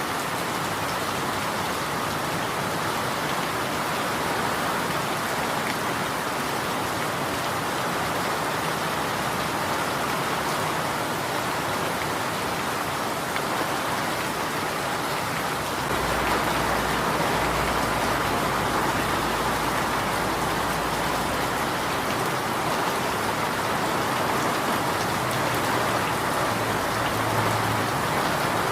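Steady rain falling and pattering on surfaces. A low rumble joins in about halfway through and fades after several seconds.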